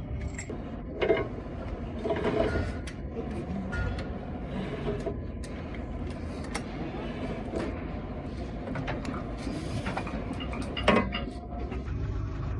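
Metal clinks and knocks of tools and engine parts being handled, over a steady low rumble; the sharpest knock comes near the end.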